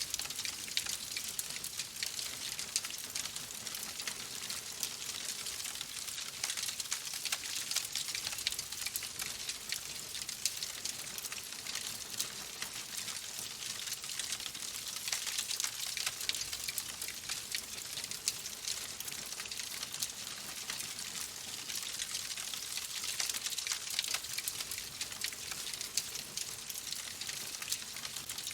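Fireplace fire crackling steadily: a continuous soft hiss packed with many small, quick pops and snaps.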